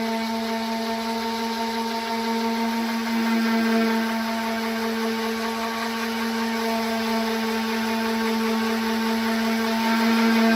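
Electric orbital sander running steadily, a constant motor hum with the hiss of sandpaper working over a car fender's filler and metal.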